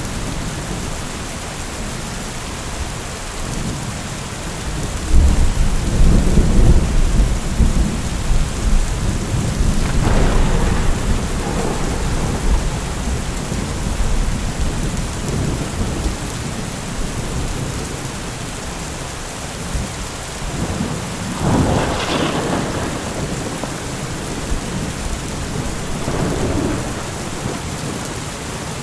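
Steady rain falling during a thunderstorm, with rolling thunder: a loud, low rumble begins about five seconds in and runs for several seconds, and a sharper, brighter thunderclap comes about three quarters of the way through.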